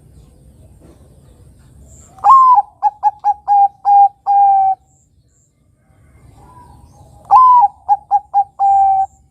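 Zebra dove (Bangkok perkutut) cooing its song twice. Each phrase opens with a long, slightly falling note, runs into a quick string of short notes, and ends on a longer held note.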